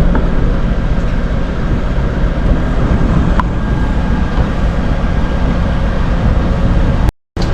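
A truck's engine idling in a steady low drone, with a faint hiss of oil sizzling in a frying pan over it.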